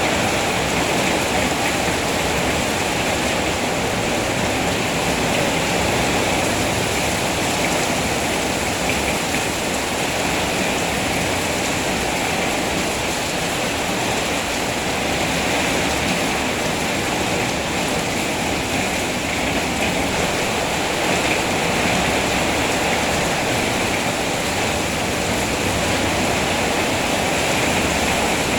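Heavy rain falling steadily: a dense, even hiss of water that does not let up.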